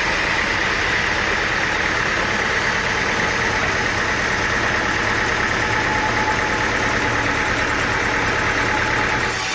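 Sawmill machinery running steadily: engine noise with a steady high whine over it. The sound changes abruptly near the end.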